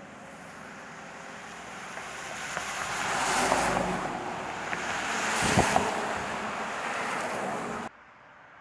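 Vehicle tyres hissing through slush on a snow-covered road as traffic passes, the noise swelling twice, then cutting off suddenly near the end.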